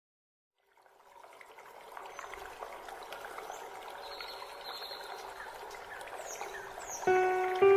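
Trickling, flowing stream water fading in from silence, with a few short high chirps. Music begins with sustained notes near the end.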